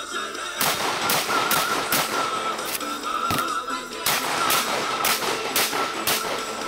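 Saiga 12 semi-automatic 12-gauge shotgun fired in rapid strings, about two to three shots a second, starting about half a second in with a short break near the middle. Background music plays underneath.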